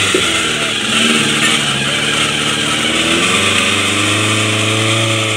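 Suzuki Jimny's engine working under load as it crawls up a steep rocky climb, the revs rising and falling before settling into a steady low note near the end.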